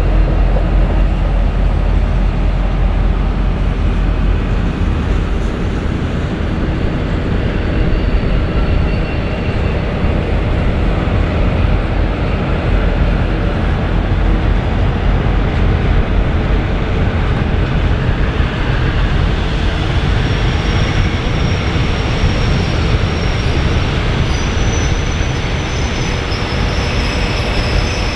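Heritage passenger train pulling out: its locomotives, the V/Line diesel A66 among them, work past close by, then a long rake of carriages rolls by. Over the last third a thin, high wheel squeal joins in.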